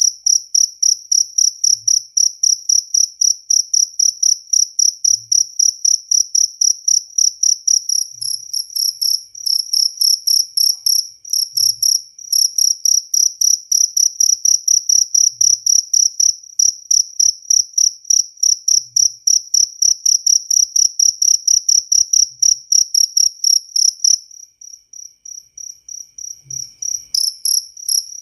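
Jaliteng cricket chirping: a loud, high, even pulsed song of about four chirps a second. About four seconds before the end it drops faint for a few seconds, then swells back.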